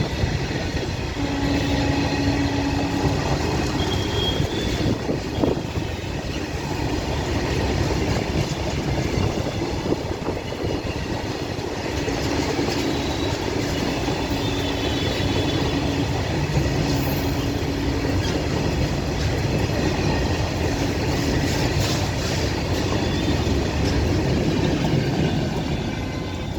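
Express train running through a station: a steady, continuous rumble of wheels on the rails, with a few short whines now and then.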